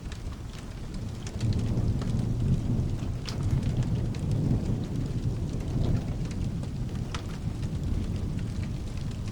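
Rolling thunder over steady rain. The deep rumble swells about a second and a half in and stays strong, with scattered sharp ticks over the rain's hiss.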